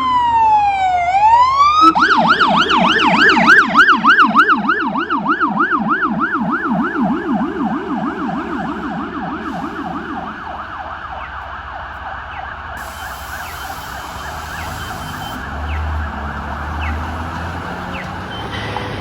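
Police car electronic siren: a slow wail that switches about two seconds in to a fast yelp, roughly three sweeps a second. For the first several seconds a lower, deeper copy of the yelp (the low-frequency Rumbler siren) sweeps along with it and then cuts out, while the siren grows steadily fainter as the car pulls away.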